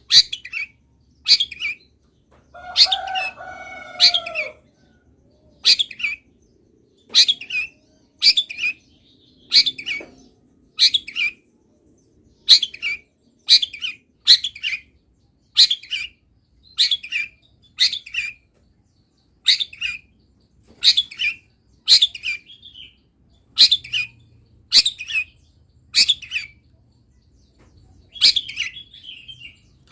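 Long-tailed shrike (cendet) singing: short, sharp notes repeated about once a second, with one lower, drawn-out call about three seconds in.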